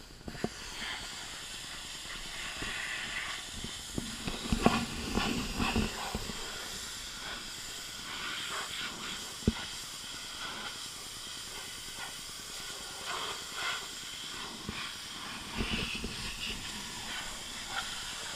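Pressure washer spray jet hissing steadily as it blasts the car's body, switching on at the start. A few louder knocks come from about 4 to 6 seconds in, and a sharp tick comes near the middle.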